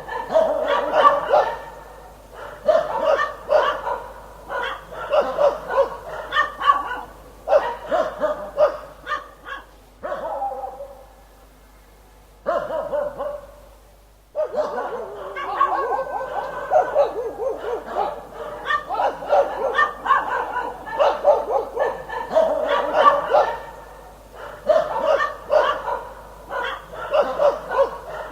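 Dog barking in rapid volleys of short, sharp barks, with a lull of a few seconds about halfway through before the barking starts again abruptly.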